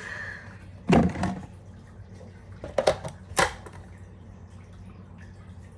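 Kitchen items handled on a counter: a heavy thump about a second in, then three sharp knocks or clicks around three seconds, over a steady low hum.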